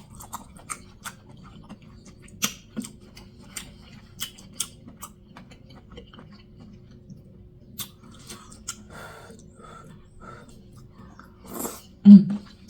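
Close-miked chewing with wet lip smacks and clicks, irregular and loud, from eating hot food with the mouth open. A louder burst comes near the end.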